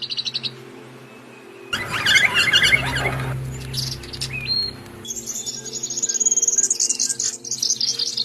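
Birds chirping and trilling: short high chirps, a loud burst of warbling notes about two seconds in, then a long, very high trill through the second half, over a soft, steady background music drone.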